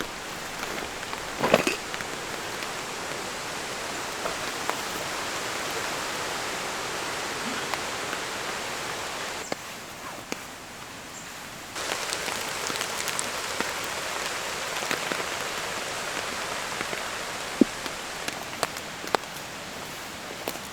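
Steady rain falling, with scattered sharp drips and taps. A brief louder rustle comes about a second and a half in, and the rain goes quieter for about two seconds near the middle before cutting back in abruptly.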